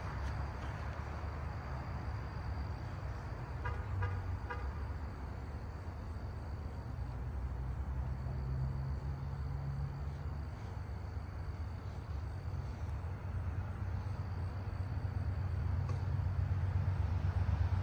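Low rumble of the approaching Amtrak Cardinal passenger train, growing louder toward the end, with a short run of high pulsing notes about four seconds in.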